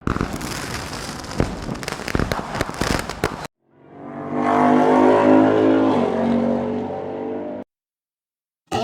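Motor vehicle engine running in two cut-together pieces. The first is rough and noisy with sharp cracks and stops suddenly. After a short gap, a steady engine note fades up, holds, and cuts off abruptly.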